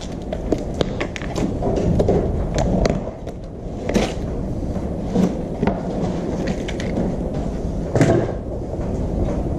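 Handling noise as a new saw blade is taken out of its packaging: scattered clicks, knocks and rattles over a steady low background rumble, with the sharpest knocks about four and eight seconds in.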